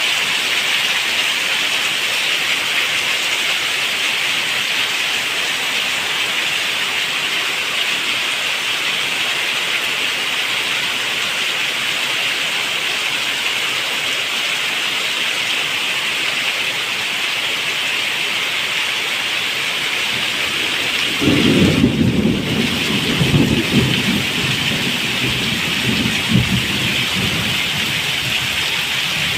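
Steady heavy rain falling, a dense even hiss. About two-thirds of the way in, thunder rumbles low and rolls on in several surges for some seven seconds before fading back under the rain.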